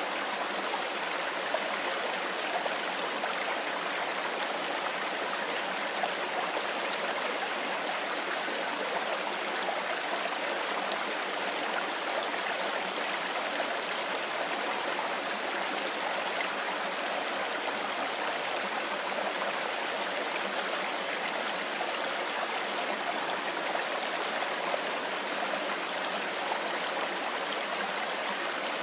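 Mountain river flowing over stones: a steady, even rush of water with no breaks.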